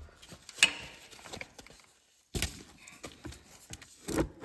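A few separate sharp knocks and clicks of a 12 mm wrench on a motorcycle's oil drain bolt as it is cracked loose, the loudest about two and a half seconds in.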